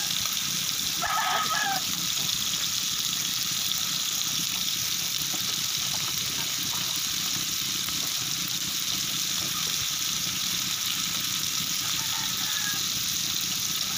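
Octopus and sea shell adobo cooking in a metal wok over a gas burner, a steady sizzling hiss. A rooster crows briefly about a second in.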